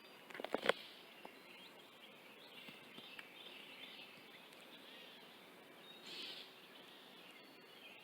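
Faint outdoor ambience with distant birds chirping and calling, a brief swell of calls about six seconds in. A few sharp clicks in the first second.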